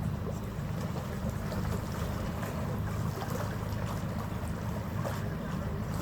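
Steady low engine rumble of a passenger ferry under way, with wind and water noise over it.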